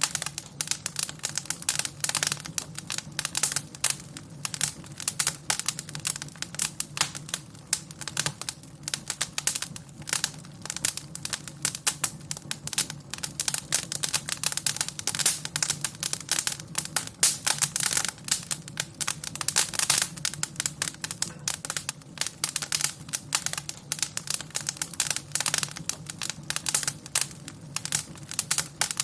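Fire crackling in a fireplace: a dense, irregular stream of small pops and snaps over a steady low rumble.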